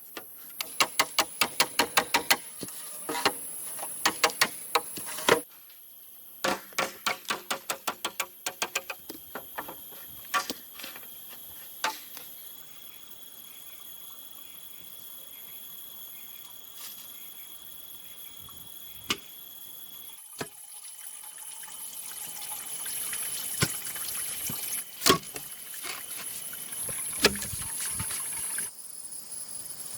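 Quick, even knocks, about three or four a second, in two runs over the first nine seconds, then single knocks now and then, typical of a hand tool chopping or hammering bamboo. A steady high insect buzz carries on behind them.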